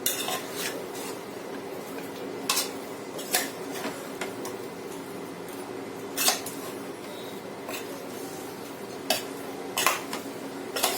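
A spoon stirring chicken pieces in wet ground masala paste in a cooking container, with sharp knocks and clinks of the spoon against the container's sides every second or few. A steady low hum runs underneath.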